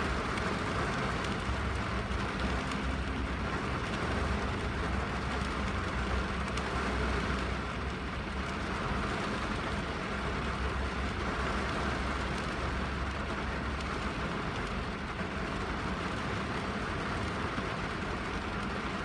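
Rain falling on a car's roof and windscreen, heard from inside the cabin: a steady, even hiss over a low rumble.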